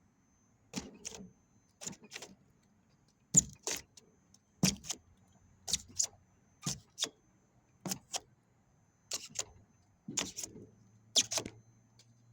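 Chisel chipping and scraping hardened foam insulation out of a refrigerator's plastic liner: short sharp strokes, often in pairs, about one a second.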